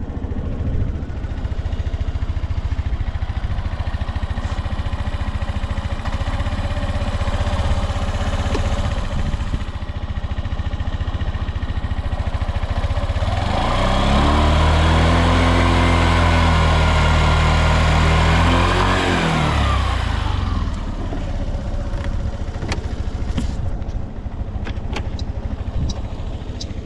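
Suzuki Address V125S scooter's single-cylinder four-stroke engine idling, then revved up about halfway through, held high for several seconds and let fall back to idle. It runs without abnormal noises, as the seller states. A few sharp clicks near the end.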